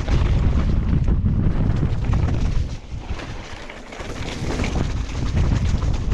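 Wind buffeting the GoPro microphone on a mountain bike descent, with tyre noise and rattles from the bike over the rough trail. It eases for about a second in the middle, then builds again.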